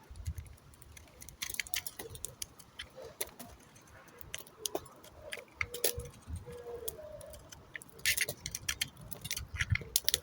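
Bar soap being cut, giving many irregular, crisp crackling clicks with a few dull thuds among them.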